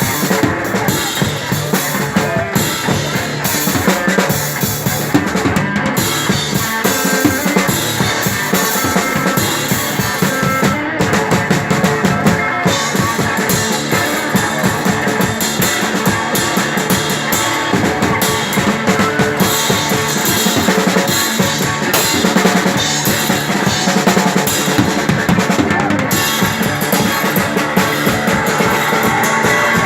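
Live rock music led by a drum kit played hard and continuously: bass drum, snare with rimshots, and cymbals washing over the top.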